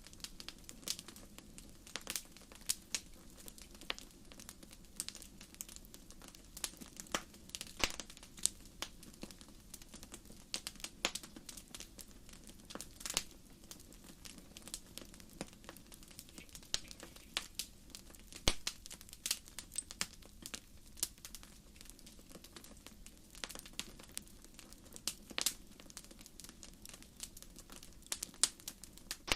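Wood fire burning, its firewood crackling with many irregular sharp pops, some louder than others, over a quiet steady low rush of flame.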